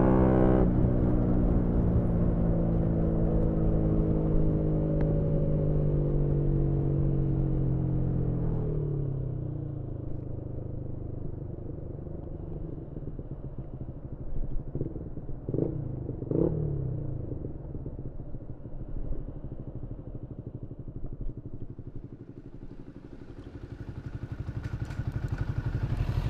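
Yamaha MT-125 single-cylinder engine through a GPR aftermarket exhaust, heard onboard: its note falls steadily for the first several seconds as the bike slows, then runs low and quieter with two short revs in the middle, and picks up again near the end.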